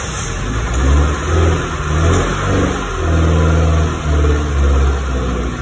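Volkswagen Golf MK2 GTI engine, just started, being revved in a series of short blips that rise and fall.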